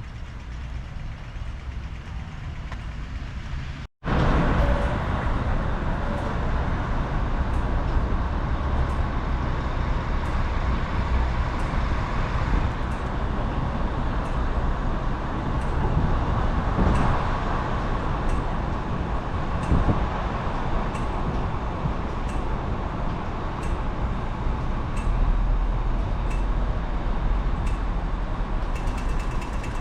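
Steady road traffic noise with a low rumble. It cuts out for an instant about four seconds in and comes back louder.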